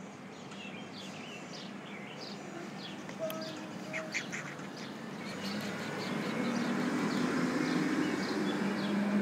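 Birds chirping, many short high calls overlapping. From about halfway through a low steady hum swells up and becomes the loudest sound.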